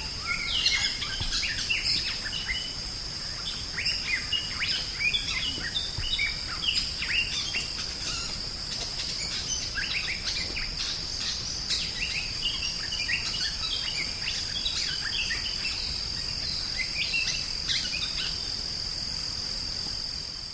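Drongo (sri gunting) singing a fast, varied run of short chirps, whistles and sweeping notes, over a steady high insect buzz. The sound fades out at the very end.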